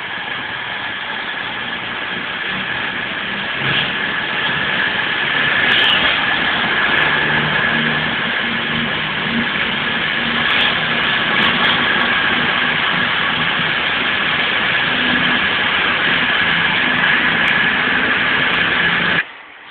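Train running at a station: a steady engine hum with a high, even whine above it, swelling over the first few seconds, then cut off abruptly near the end.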